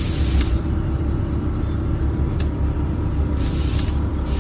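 Truck air suspension working: several short hisses of air from the air-bag valves, the longest about three seconds in, with a sharp click midway. A steady low mechanical rumble runs underneath.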